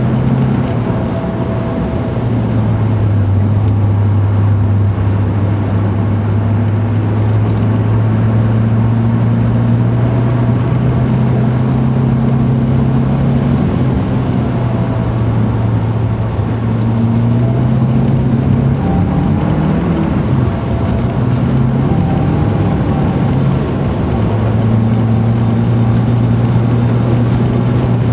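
Volvo 940 Turbo's engine heard from inside the cabin, running under changing throttle on a snowy, icy road. The engine note drops about two seconds in, rises again around the middle, wavers briefly, and rises once more near the end.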